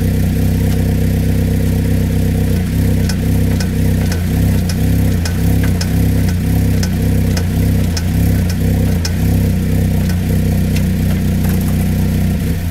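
Vauxhall VX220's Z22SE 2.2-litre four-cylinder engine running steadily, with a sharp knock that repeats about twice a second from a couple of seconds in: the strange knocking noise under investigation.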